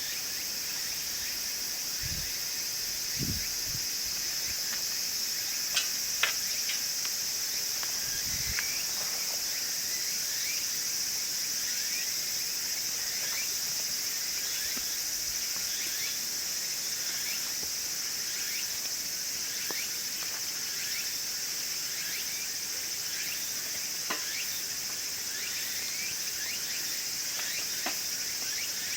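A steady high-pitched chorus of insects, with small crackles and occasional sharper pops from wood burning in a wood stove. A few dull low thumps in the first ten seconds.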